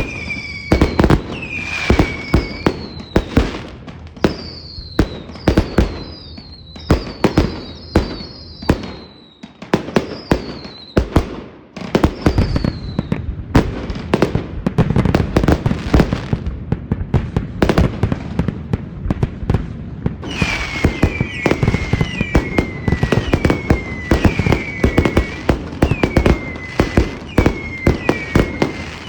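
Fireworks display: a rapid run of sharp bangs from bursting shells, with many short whistles that fall in pitch. The bangs thin out briefly about ten seconds in. From about two-thirds of the way through, a dense crackling joins them along with a fresh run of falling whistles.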